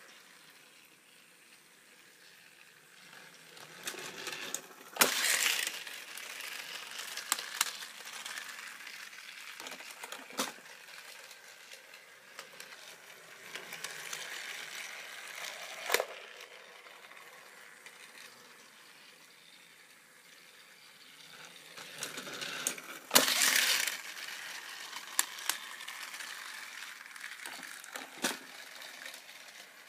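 Battery-powered Trackmaster toy train engine running on plastic track: a small motor whirring with wheels clattering. It swells and fades several times, with sharp clicks every few seconds.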